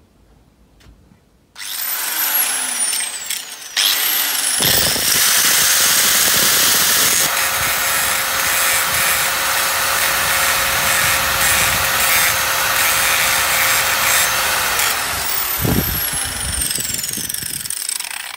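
Angle grinder starting up about a second and a half in and grinding off the head of a seized, rusted bolt on a seat frame's back plate, a steady whine under the harsh grinding noise, louder from about four seconds in. Near the end it winds down, the whine falling in pitch as the disc slows.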